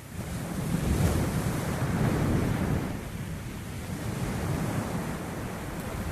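Rushing noise of surf and wind, heavy in the low end, swelling about a second in, easing off through the middle and building again near the end, with wind buffeting the microphone.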